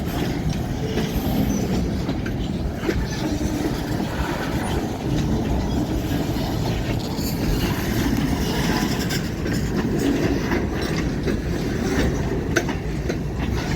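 Freight train cars rolling past, a steady rumble with the clickety-clack of wheels over the rail joints.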